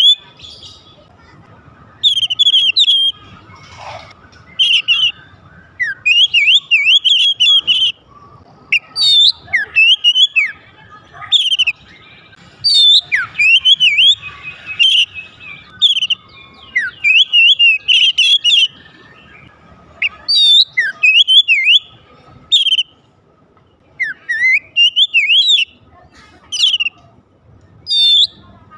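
Oriental magpie-robin (kacer) singing: loud, rapid whistled phrases with quick up-and-down glides, delivered in bursts of a second or two with short pauses between.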